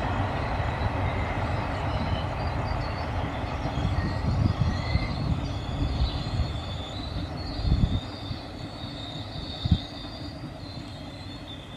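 Passenger coaches passing at speed behind an electric locomotive: a steady rumble of wheels on the track with irregular thumps, and a thin, high, wavering whine from about four seconds in. The sound eases off slightly toward the end as the train draws away.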